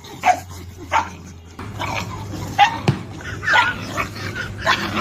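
A dog barking in short, high yips, about eight in a row at roughly two a second.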